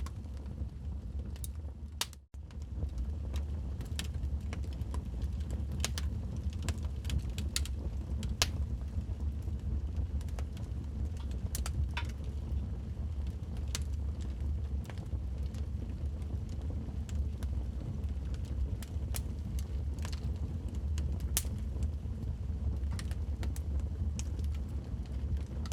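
Wood logs burning in a fireplace, crackling with irregular sharp pops over a steady low rumble. The sound cuts out for a moment about two seconds in.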